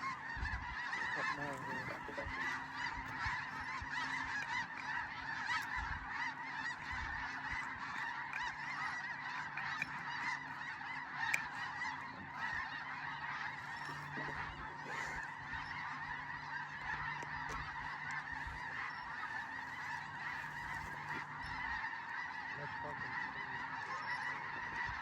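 A large flock of snow geese calling overhead: a dense, unbroken chorus of honks.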